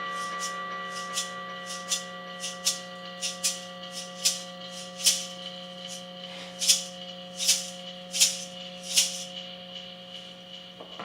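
Improvised experimental noise music through effects pedals: a steady sustained drone of several held tones, the higher ones fading early, under a series of short, hissy, shaker-like rattling hits that come every half second or so, growing louder toward the middle and stopping shortly before the end.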